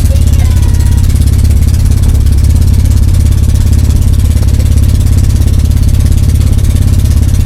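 A small boat's pull-start engine running steadily under way, a loud low throb with fast, even pulses.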